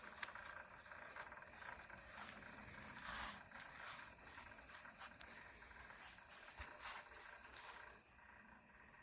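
Faint night chorus of insects and frogs: a steady, high trill that breaks off near the end, over scattered croaking calls.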